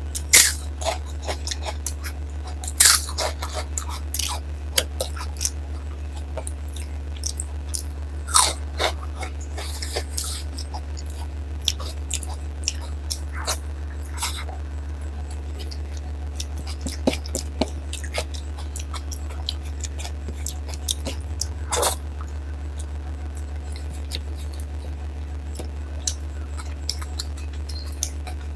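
Close-up eating sounds of a person eating dal, rice and papad by hand: chewing with scattered sharp crunches and mouth clicks, the loudest about three seconds in and again around twenty-two seconds. A steady low hum runs underneath.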